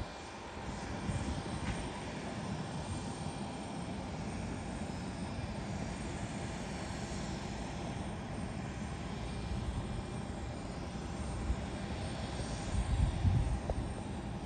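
Airliner engines running steadily at a distance, an even rumble with a faint high whine over it, swelling briefly with a low rumble near the end.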